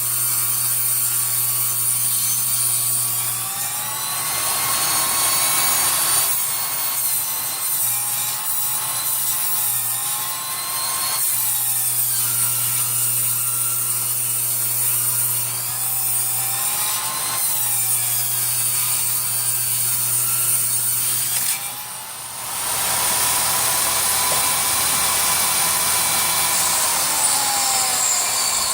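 Power saw ripping a yellow poplar board lengthwise, cutting off the bark edge. Its motor runs steadily, and the whine sags in pitch and comes back up several times as the blade loads in the wood, with a brief drop in level near the end.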